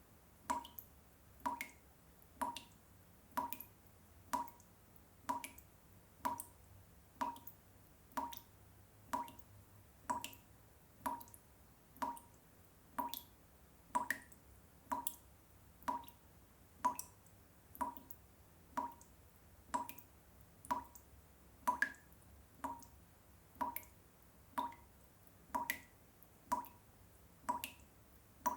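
Water drops falling one at a time into water, a steady drip about every half second, each drop a short, clear plink.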